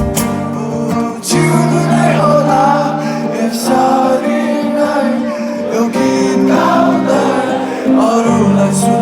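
Live rock band music: male vocals sung over guitar and sustained band accompaniment.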